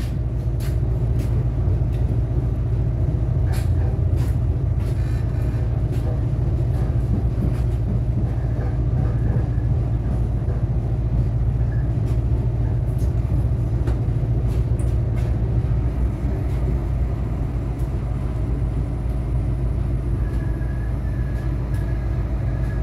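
Diesel railcar running along the line, heard from inside the carriage: a steady low engine drone and the rumble of wheels on track, with scattered clicks in the first few seconds. A faint, thin high tone comes in near the end.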